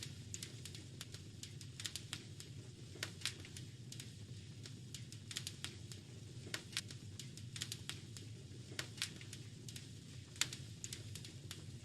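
Wood fire crackling: irregular sharp pops and snaps, a few louder ones, over a steady low background of burning.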